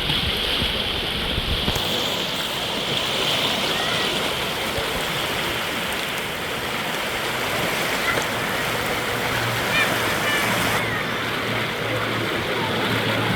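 Steady rushing of flowing water, as of a stream, with a few faint short high chirps now and then.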